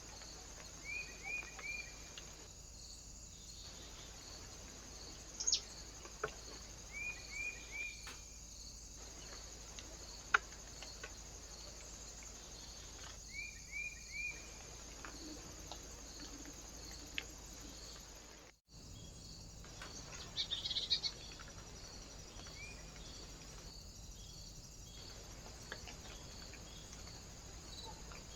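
Small birds at a feeder calling, mostly short groups of three quick chirps every few seconds, with a brief flurry of higher chirps about two-thirds through. Under them runs a steady high hiss with a faint regular ticking, and the sound drops out briefly partway through.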